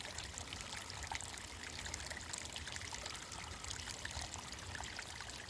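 Mountain valley stream babbling and trickling steadily, a continuous splashing patter of water.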